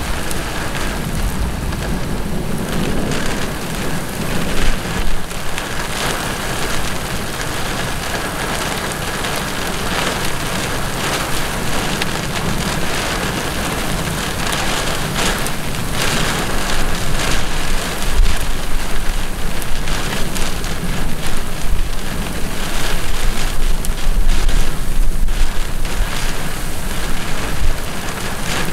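Heavy thunderstorm downpour, rain pouring steadily onto a flooded road and grass. Low rumbles swell underneath about two-thirds of the way through and again near the end.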